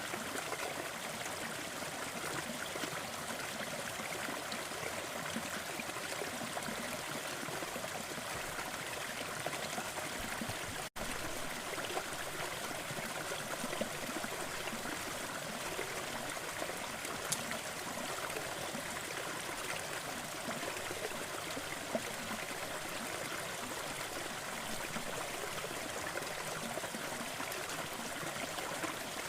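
Steady rushing noise of a fireplace-and-brown-noise sleep soundscape, with a few faint crackles from the fire. The sound drops out for an instant about 11 seconds in, like a loop join.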